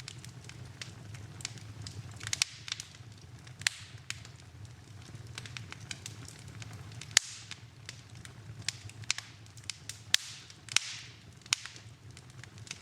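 Wood fire in a fireplace crackling, with irregular sharp pops over a low steady hum; the loudest pop comes about seven seconds in.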